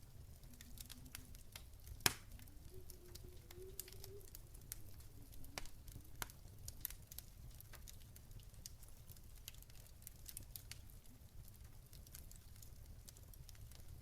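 Wood fire crackling: scattered sharp pops at an uneven pace, the loudest about two seconds in, over a low steady rumble.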